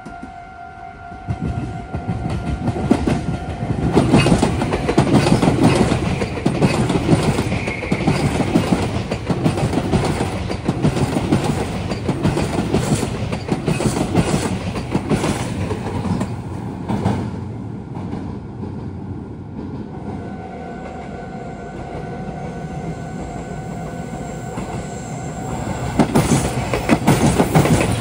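Meitetsu 1200 series + 1800 series electric train passing close by, its wheels clattering rhythmically over rail joints and the junction's points for about fifteen seconds. A level-crossing warning alarm rings a steady two-note electronic tone at the start and again from about two thirds of the way in. Near the end, a second train, a red 3500 series + 3100 series set, begins clattering past.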